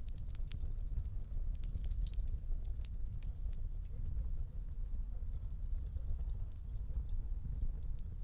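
Wood fire in a fireplace crackling: many quick, sharp pops and snaps, thickest in the first half, over the low steady rumble of the flames.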